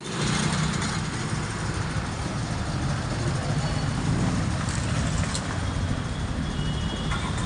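A motor engine running steadily at idle, a low even rumble with a haze of noise over it.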